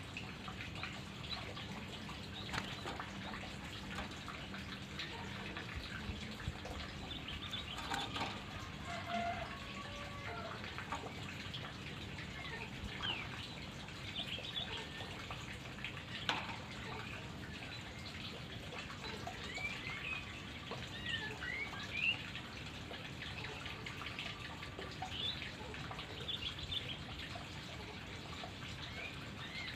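Songbird chirps and short calls, scattered and coming more often in the second half, over a steady hiss.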